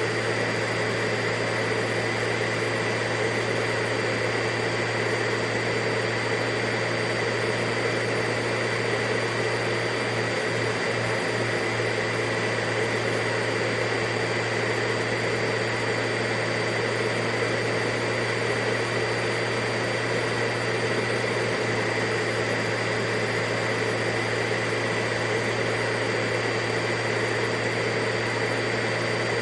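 Vacuum cleaner running steadily: an even rushing roar with a low hum and a high whine, unchanging throughout.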